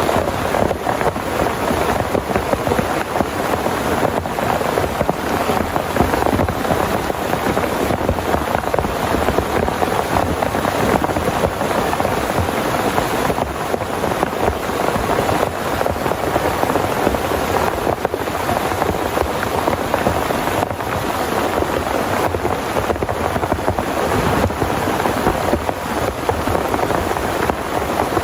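Heavy rain falling steadily: a dense, unbroken patter of countless drops.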